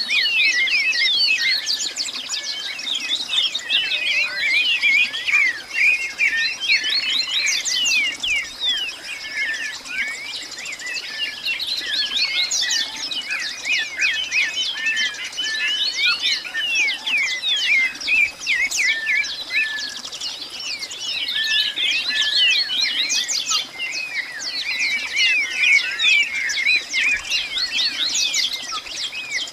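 A dense chorus of many birds chirping at once, with short, quick, overlapping calls that thin out briefly a couple of times.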